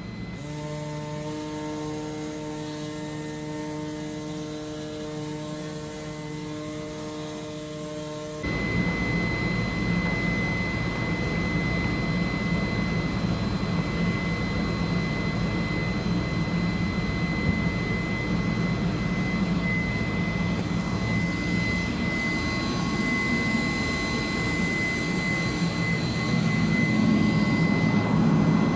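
Comagrav Digi Corsa CNC flatbed cutter running while it cuts rubber sheet with its pneumatic oscillating tool over a vacuum hold-down table: a steady machine hum that turns suddenly louder and rougher about eight seconds in, with a steady high whine, and stays that way.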